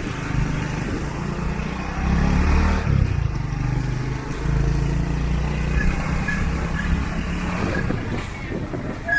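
Motor vehicle engine running in street traffic: a steady low hum that swells about two seconds in and again around the middle, with motorbikes among the traffic.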